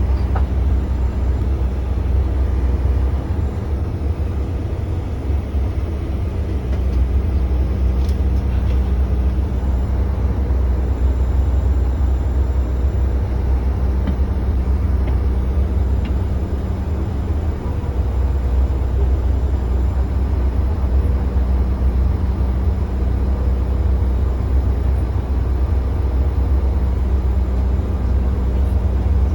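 Cabin noise of a CRJ-900 regional jet taxiing: a steady low rumble with a constant hum over it, heard from inside the forward cabin.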